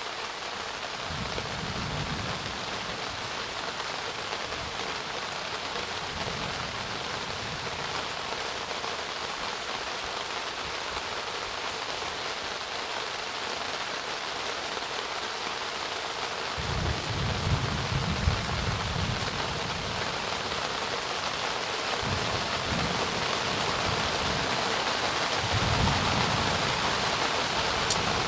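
Steady rain from a thunderstorm, with low rumbles of thunder coming and going several times, the strongest and longest a little past the middle.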